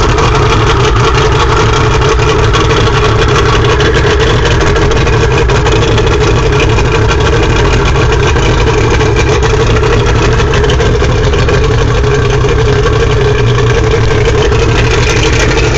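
Carbureted Mercury 175 outboard motor idling steadily, warming up just after a choked cold start.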